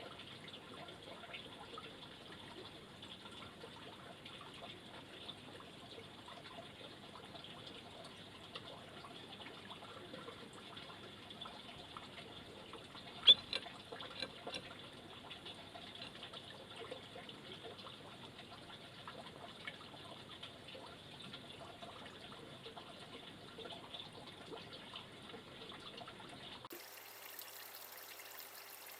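Steady trickling water, with one sharp click about thirteen seconds in. The sound changes abruptly a couple of seconds before the end.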